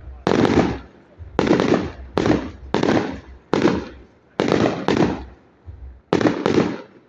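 Fireworks going off in quick succession: about nine loud bangs, each sudden and trailing away over half a second, one to two a second.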